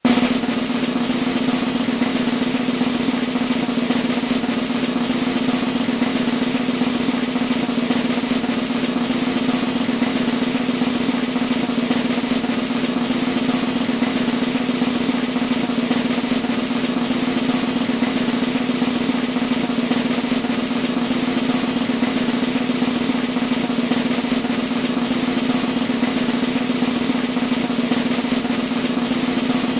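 Snare drum roll, a long, even, continuous roll at a steady level that starts abruptly.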